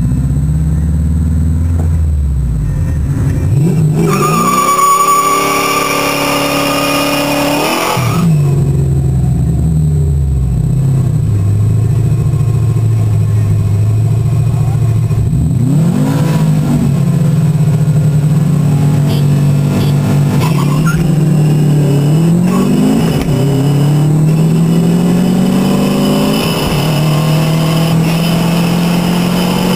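Subaru WRX's turbocharged flat-four, heard from inside the cabin, accelerating hard: the engine pitch climbs through each gear and drops at each upshift, several times over.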